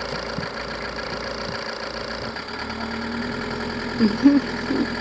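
Van engine running steadily as the van drives off on a test drive, just after its timing belt was replaced. A few short voice calls come in near the end.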